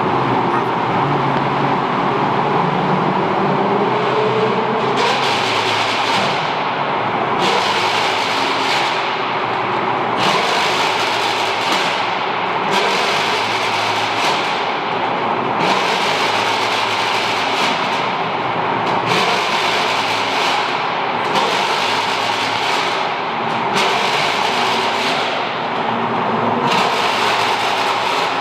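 Car exhausts revved hard again and again over steady road noise, a loud burst every two to three seconds.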